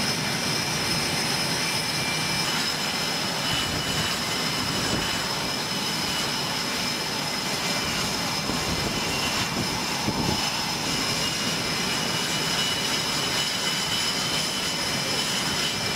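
F/A-18 Hornet jet engines running steadily: a high turbine whine of several steady tones over an even rushing noise, with a brief thump about ten seconds in.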